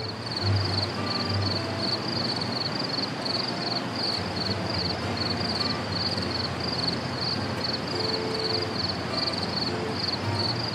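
Outdoor nature ambience: a steady rushing noise with a rapid, regular high-pitched chirping running over it.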